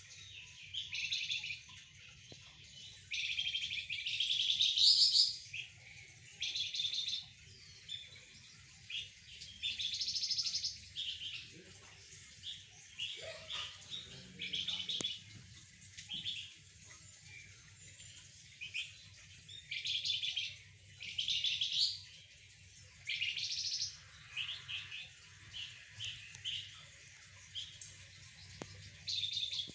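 A flamboyan songbird singing vigorously (gacor): short bursts of high, fast chirping phrases, repeated every second or two.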